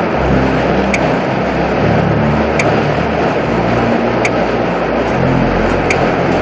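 Heavy wind rushing over the microphone of a camera on a moving road bicycle, a steady loud roar. Background music runs underneath, with a bass line and a sharp beat about every one and a half seconds.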